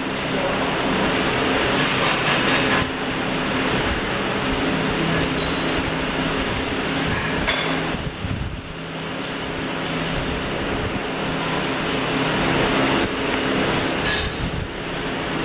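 Electric arc welding: the steady crackling hiss of a welding arc over a constant low hum, dipping briefly about eight seconds in.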